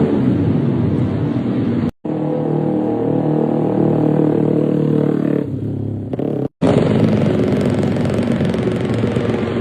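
150cc underbone race motorcycles' single-cylinder four-stroke engines screaming at high revs, in three short clips cut together. A falling pitch as a bike passes opens the first clip. A steady high note follows after the first cut and drops away shortly before the second cut. After it another bike runs hard.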